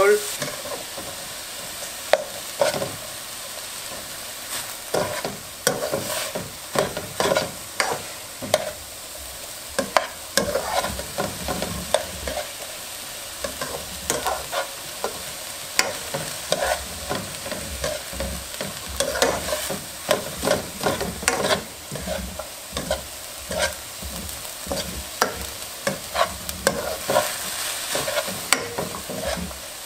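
Chopped onions sizzling in hot oil in a caldero, with the stirring utensil scraping and knocking irregularly against the pot as they are stirred constantly.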